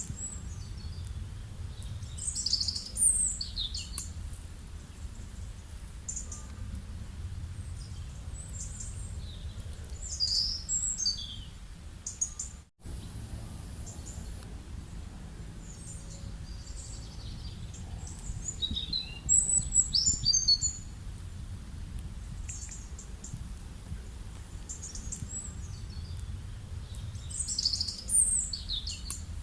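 Small birds chirping in short clusters of high calls every several seconds, over a steady low rumble of outdoor background noise. The sound cuts out completely for a moment about halfway through.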